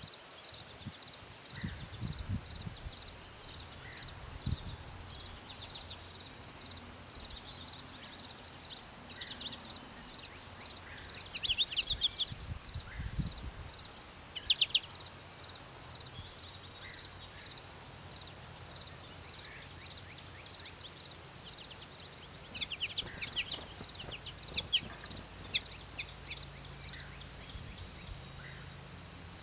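Insects, likely crickets, chirping in a steady high-pitched pulse about twice a second, with a few short bird chirps now and then.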